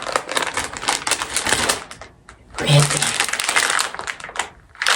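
Plastic packaging crinkling and crackling as it is handled and opened, in dense bursts with a short pause about halfway through.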